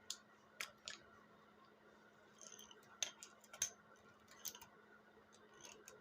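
Scattered light clicks and taps, about a dozen at irregular intervals, from small tools and parts being handled, over a faint steady hum.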